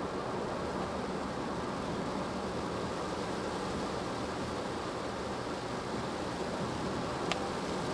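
Steady road and tyre noise heard inside a moving car's cabin, driving on a wet road in the rain, with one sharp click near the end.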